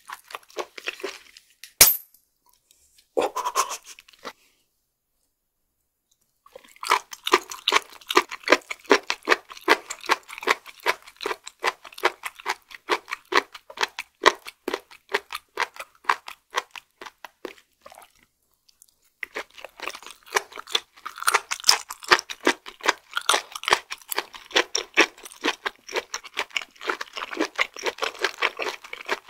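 Close-miked chewing of raw flounder sashimi: rapid, wet, crunchy chews, about three a second, in two long runs with a brief pause between. A single sharp click comes about two seconds in.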